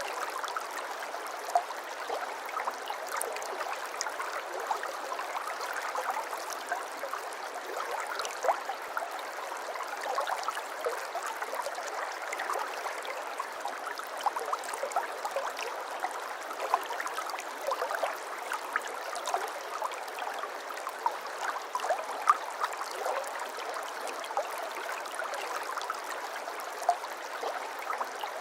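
Gently flowing water in a small stream: a steady babbling trickle dotted with many small plinks and splashes, without any deep rumble.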